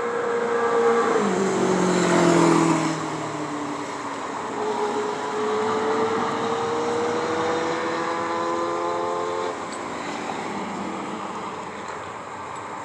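Motor vehicles: one passes with its engine note dropping in pitch, loudest about two seconds in. Then a second engine note climbs slowly and cuts off about nine and a half seconds in.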